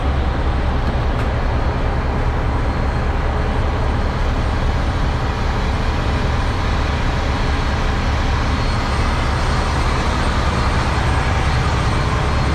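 Semi truck's diesel engine running with a steady low rumble and an even background noise.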